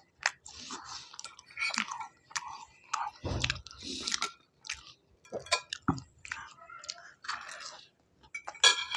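Close-miked chewing and mouth sounds of a man eating, mixed with clicks and scrapes of a metal fork on a plate, and a louder clink near the end.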